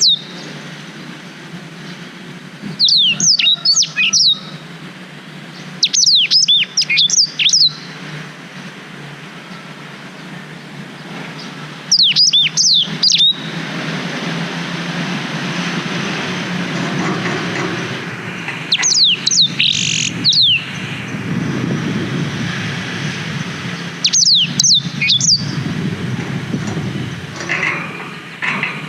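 A blackthroat (black-throated canary) singing short, quick phrases of high whistled notes that slide downward. There are about five phrases, each a second or so long and a few seconds apart, over a steady low rumble.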